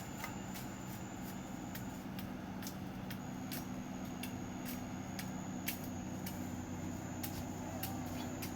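Steady hum of a watercraft engine running on the river, its pitch shifting about three seconds in. Scattered sharp clicks and a thin high-pitched whine run alongside it.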